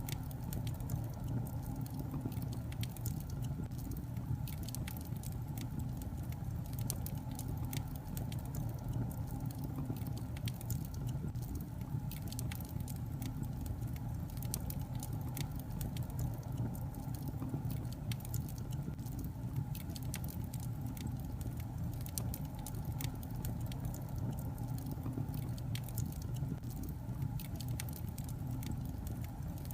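Wood fire burning in a fireplace: many irregular sharp crackles and pops from the burning logs over a steady low rumble.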